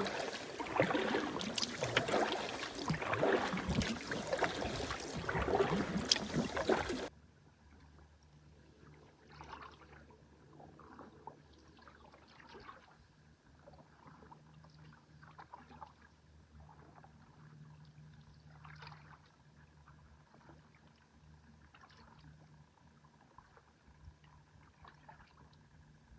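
Canoe paddling: paddle strokes and water splashing and sloshing, fairly loud for about seven seconds. It then drops suddenly to a much quieter stretch with only faint, scattered drips and taps.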